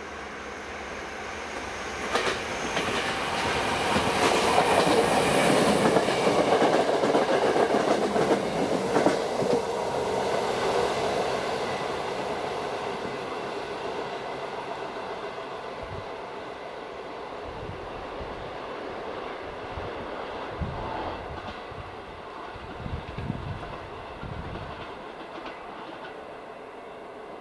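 Passenger train passing close by, wheels clicking over rail joints. It grows loud a couple of seconds in, is loudest for several seconds, then slowly dies away as it moves off.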